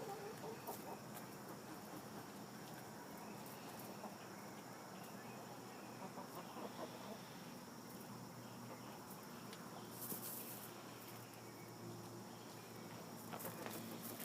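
Chickens clucking softly as they scratch at the ground, with short rustling bursts of scratching about ten seconds in and again near the end.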